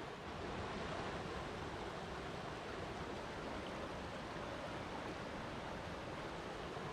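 Flowing water rushing steadily, an even hiss with no breaks or splashes standing out.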